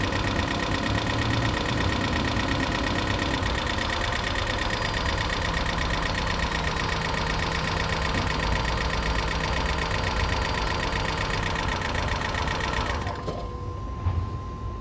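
2012 Toyota Prius V's 1.8-litre four-cylinder engine running with a rapid steady ticking, lifter noise after a head gasket rebuild that the owner expects to clear up as the lifters adjust. The engine cuts off abruptly near the end.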